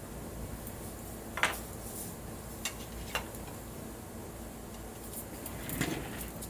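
A few light metallic clinks and taps from small metal parts or tools being handled and set down, the loudest about a second and a half in, with a short rattle near the end.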